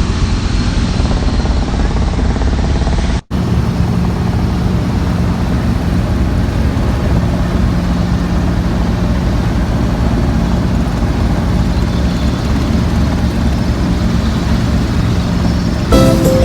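Steady engine and rotor noise of a small helicopter, with a low pulsing beat, cut by an abrupt edit about three seconds in. Music comes in just before the end.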